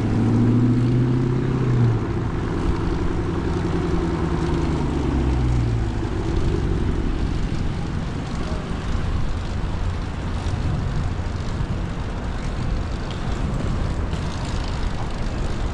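Steady wind and road rumble on a handlebar-mounted action camera's microphone while riding a fixed-gear bicycle through city traffic. For the first several seconds a nearby vehicle's engine drones over it, its pitch slowly falling as it passes or slows, then it fades.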